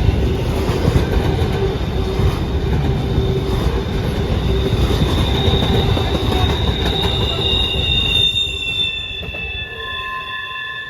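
CSX intermodal freight train's cars rolling past with a loud, dense rumble of steel wheels on rail. The rumble drops away about eight seconds in, leaving a steady, high multi-tone squeal from the wheels that fades.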